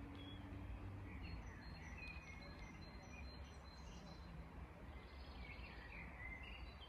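Faint birdsong: short high chirps and warbles in two bouts, over a low, steady background rumble.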